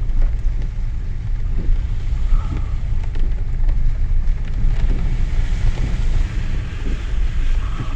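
A Mercedes 3-litre V6 diesel van running at low speed through deep floodwater: a steady low engine rumble under the hiss and slosh of water thrown up by the tyres, with scattered small knocks and splashes.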